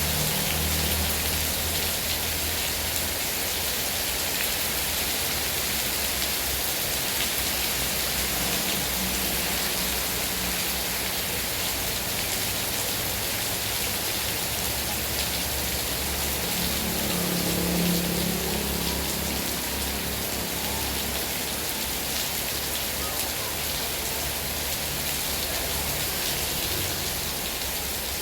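Heavy rain falling steadily, an even hiss of drops on surfaces. A faint low hum swells briefly about two-thirds of the way through.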